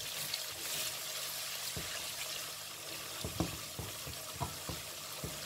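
Onion, ginger-garlic paste and chopped green chillies sizzling in oil in a metal karahi while a spoon stirs, with short knocks of the spoon against the pan, more of them in the second half.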